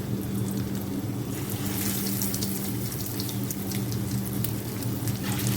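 Cooking oil crackling and sputtering in a frying pan as it heats for deep-frying, with scattered crackles starting about a second in, over a steady low hum.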